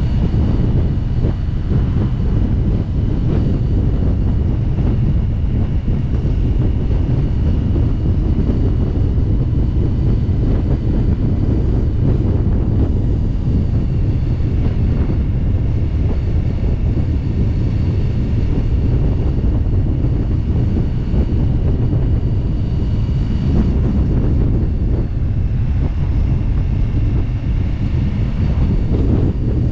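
Motorcycle running steadily at road speed, with a dense low rumble and heavy wind noise on the microphone.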